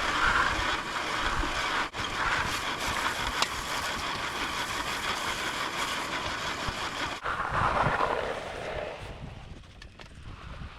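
Engine of concrete mixing equipment running steadily, with brief sharp breaks about two and seven seconds in, then dropping off quieter near the end.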